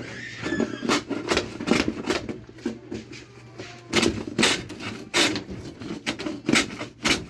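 An irregular series of knocks and clatter from carpentry work, about one or two sharp strikes a second with some quicker clusters.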